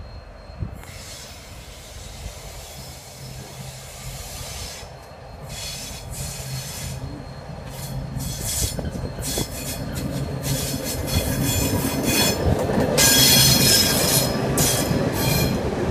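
Two Aurizon diesel-electric locomotives hauling empty coal wagons approach and pass close by, their engines' low drone growing steadily louder. High-pitched wheel squeal from the curving track comes and goes from about a second in and is loudest as the locomotives go past near the end.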